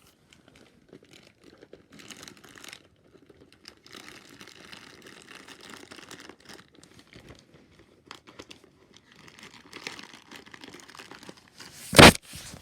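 Plastic packaging crinkling and rustling in hand while gift bags are filled, in soft, uneven spurts, with one loud, brief burst of noise near the end.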